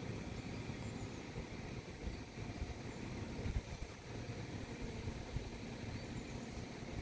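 Low, steady rumble of road traffic at a level crossing, with a few faint bird chirps.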